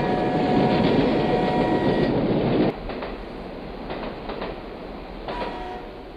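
A train horn holds one steady chord until about two seconds in, over the rumble and clickety-clack of a running train. The rumble drops off suddenly after about two and a half seconds, leaving quieter rail clatter, and a short horn blast comes near the end.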